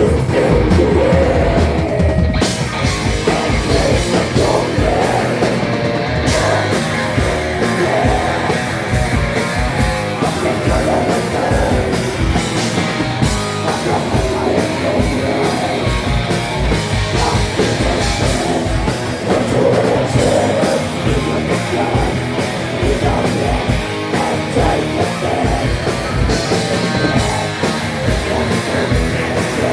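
A rock band playing loud and continuously live, with guitars and drums filling the whole stretch without a pause.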